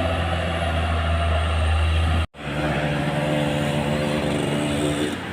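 Heavy truck diesel engines running steadily under load on a steep uphill climb. The sound breaks off completely for a moment a little over two seconds in, then resumes with an engine at a different steady pitch.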